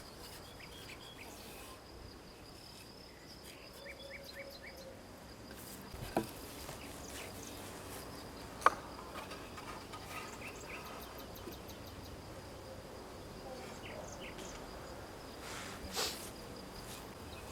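Faint crickets chirping steadily in the background, with two sharp single knocks about six and eight and a half seconds in.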